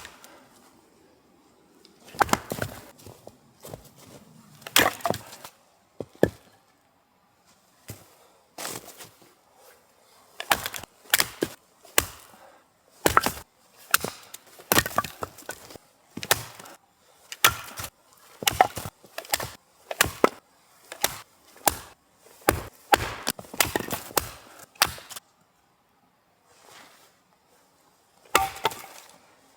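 Firewood being chopped and broken up: a long run of sharp, irregular knocks and cracks, sometimes in quick clusters. They stop about 25 seconds in, and one more crack comes near the end.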